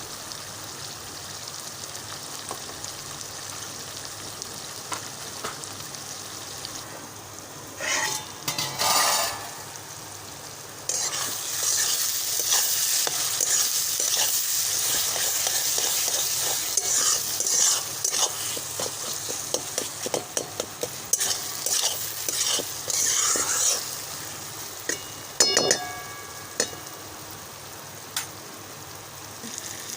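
Onion-tomato masala with freshly added ground spices sizzling in a pan while a spoon stirs and scrapes it, with many small clicks against the pan. The sizzling grows louder about a third of the way in, and a short ringing metal clink comes a few seconds before the end.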